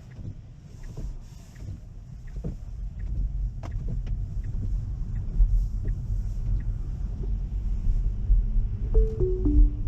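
Tyre and road rumble inside a Tesla's cabin on a wet road, growing louder as the car gathers speed, with a few scattered light knocks. Near the end comes a short electronic chime of three falling notes from the car.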